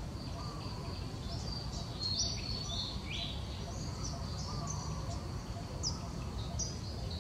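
Many small birds chirping, short high calls and quick down-sliding notes overlapping several times a second, over a steady low background rumble.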